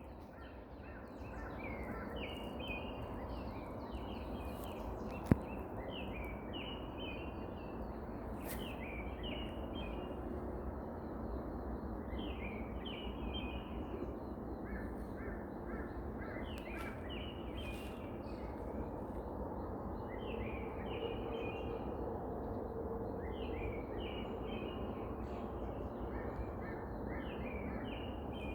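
Mountain birds singing before dawn: clusters of short, repeated song phrases from several birds over a steady background rush. A single sharp click about five seconds in is the loudest moment.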